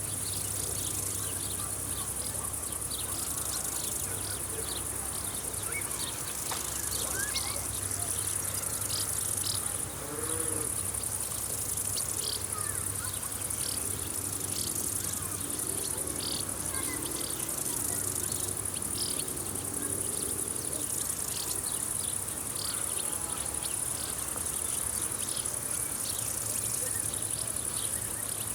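A chorus of field insects chirring steadily at a very high pitch, with many short chirps over it. A fly or similar insect buzzes near the microphone through the middle stretch.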